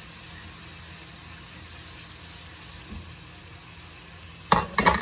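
Kitchen sounds: a steady hiss that thins out about three seconds in, then a loud clatter of several quick knocks near the end, as cookware is handled.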